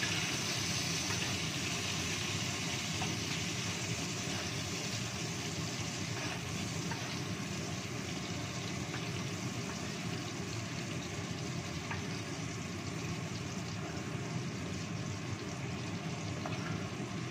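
Red and green chilies frying in oil in a wok over a gas burner: a steady sizzle over the low rush of the flame, easing a little after the first few seconds as the chilies are stirred and lifted out.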